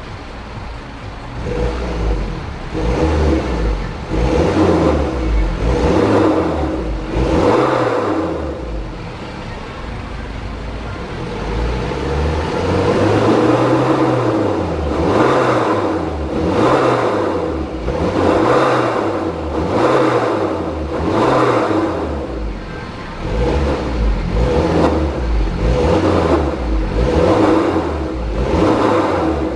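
BMW F30 320d four-cylinder diesel through an aftermarket loud-version dual exhaust, revved repeatedly in quick blips that rise and fall about every one and a half seconds, with a short steadier stretch near idle a third of the way in.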